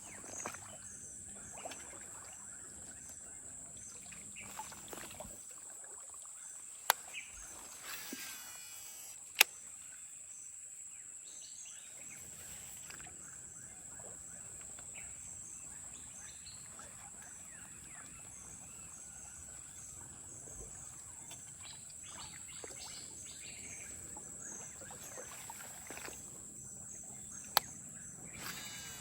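Insects shrilling steadily at a high pitch, broken by three sharp clicks, two in the first ten seconds and one near the end.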